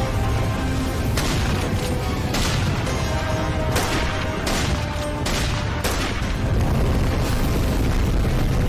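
Action-film soundtrack: score music over a steady low rumble, cut through by about six sharp bangs, a second or so apart.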